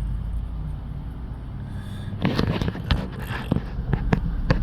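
Car moving slowly with a low engine rumble; about halfway through a burst of scraping and crackling with sharp knocks, then several separate sharp clicks near the end.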